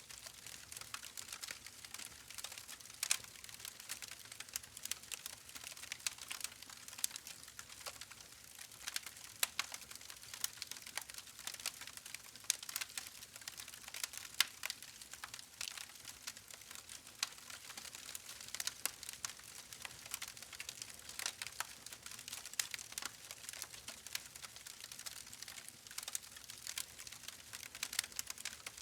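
Campfire burning with a steady, dense crackle of small snaps and irregular louder pops over a soft hiss.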